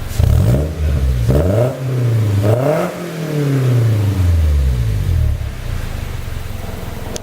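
Toyota Hilux Surf's 2TR four-cylinder petrol engine through a Suruga Speed aftermarket muffler, revved while stationary. Two short blips come first, then a longer rev climbs for about a second and eases slowly back down to a steady idle by about five seconds in.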